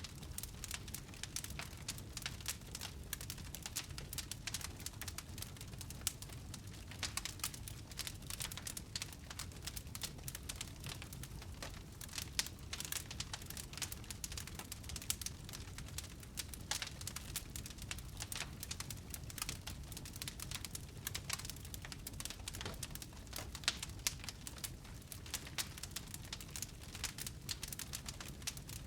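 Wood fire burning in a fireplace: a dense, irregular crackle of small pops and snaps over a low, steady rumble, with a few louder pops.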